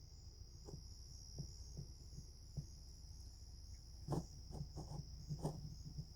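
Steady high-pitched insect chorus, a continuous shrill trill, with about nine soft, irregularly spaced thuds close to the microphone, the loudest about four and five and a half seconds in.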